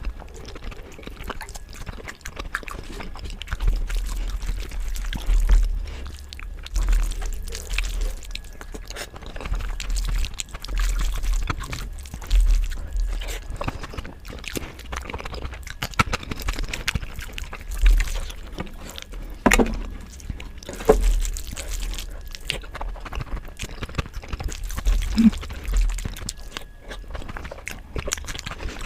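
Close-miked eating sounds: irregular wet chewing and mouth clicks, with a few sharper clicks a little past the middle.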